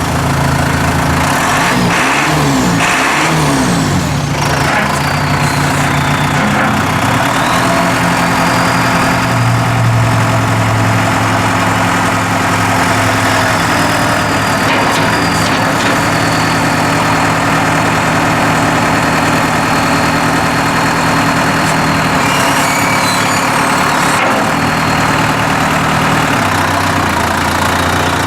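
John Deere 5083E's turbocharged four-cylinder diesel running, its engine speed changing a few seconds in and again near the end, with a thin high whine above the engine note.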